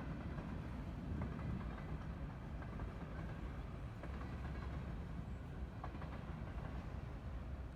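Canadian Pacific freight train rolling along the mainline: a steady low rumble of wheels on rail, with a few faint clicks.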